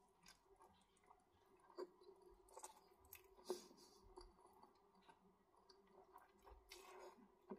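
Faint, close-miked eating of thick, saucy Buldak black bean instant noodles: wet chewing with mouth clicks and smacks as a forkful of noodles is drawn into the mouth. A few sharper smacks stand out, about two seconds in, halfway through and at the very end.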